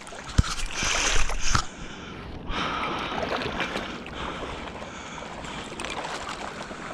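Steady rushing and splashing water noise, with a knock about half a second in and a louder splashy stretch around a second in.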